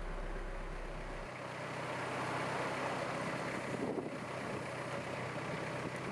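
Iseki GEAS41 tractor's engine running; a little over a second in its low hum gives way to a higher steady note and it runs louder, as when the engine speed is raised.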